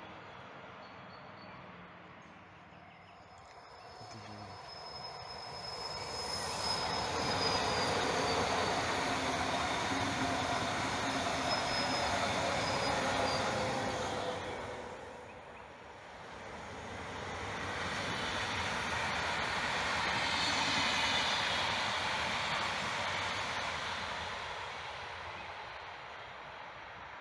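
Two electric passenger trains go by one after the other, the first a Pendolino high-speed train: a rushing rail noise that swells and fades twice. During the first pass there is a thin, high wheel squeal.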